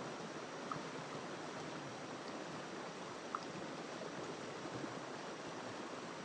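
River water flowing over rocks, a steady even rush, with two brief faint ticks about two-thirds of a second in and a little over three seconds in.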